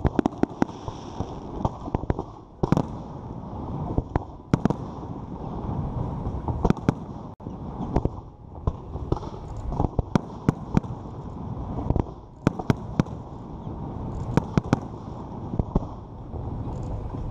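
Aerial fireworks display: an irregular run of many sharp bangs from bursting shells, several in quick clusters, over a steady low rumble.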